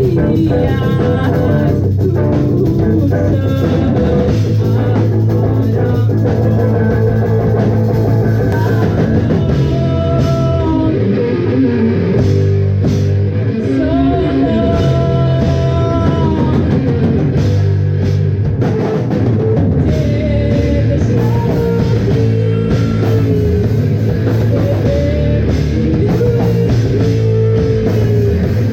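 A rock band playing loudly and steadily: drum kit and guitar.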